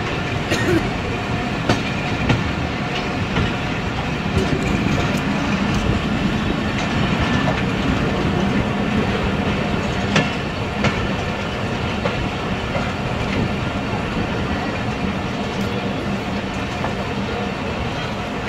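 Passenger train running along the track: a steady rumble with scattered clacks of the wheels over the rails.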